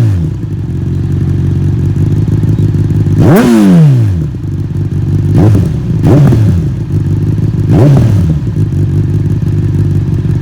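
2012 Honda CBR600RR's inline-four engine idling through a Termignoni titanium exhaust and blipped several times. It settles from a rev at the start, gives one bigger rev about three seconds in, then three shorter blips, each dropping straight back to idle.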